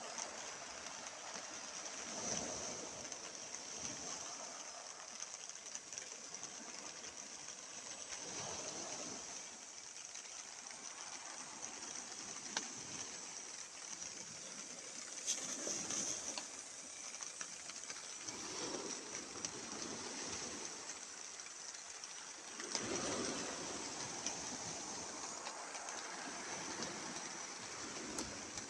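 Sea waves washing in, swelling and falling back every few seconds over a steady rush of water.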